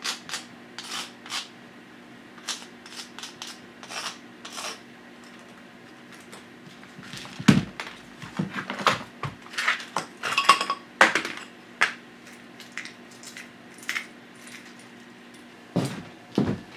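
Scattered clinks and knocks of tools and hardware being picked up and set down, busier in the second half, with one brief metallic ring about ten seconds in, over a faint steady low hum.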